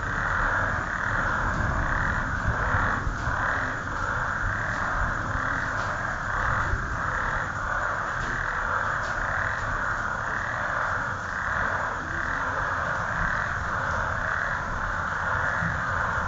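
A chorus of frogs calling, a dense pulsing mass of croaks that swells about twice a second, with a steady low rumble underneath.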